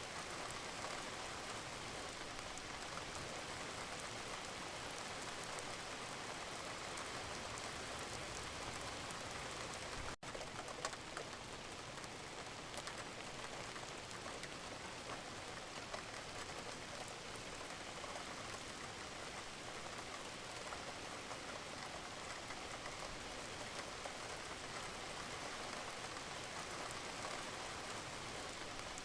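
Steady rain with a dense patter of drops, even in level throughout, with a split-second dropout about ten seconds in.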